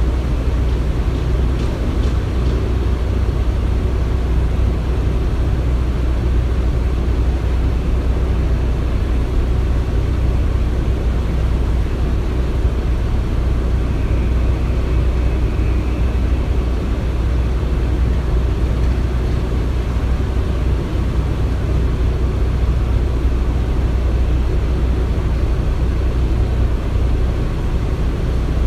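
Construction machinery running steadily as a continuous low engine rumble, with a faint high tone for a couple of seconds about halfway through.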